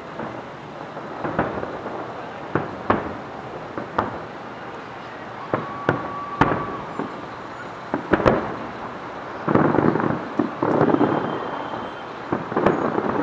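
Aerial firework shells bursting, a series of sharp booms at uneven intervals that thicken into a dense run of overlapping bangs about ten seconds in.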